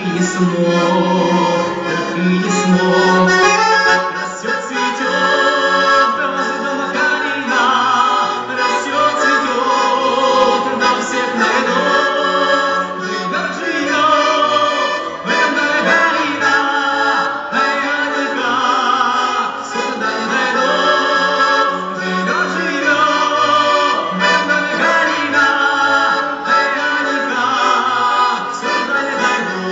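Accordion playing a melody over held bass notes.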